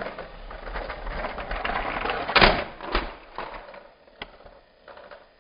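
Battery-powered plastic toy train motor rattling along plastic track, then a loud crash clatter about two and a half seconds in, a second knock just after, and a few scattered clicks.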